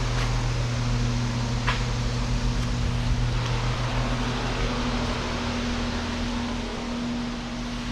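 Steady mechanical hum with a low drone and an even hiss, broken by a few short clicks in the first few seconds.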